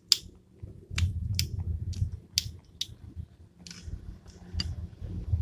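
A series of sharp clicks and taps, about eight, at uneven intervals, over a low rumble of objects being handled.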